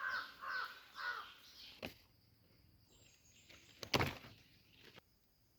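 A bird calling, four short calls about half a second apart, followed by two sharp clicks, the second the loudest, about two and four seconds in.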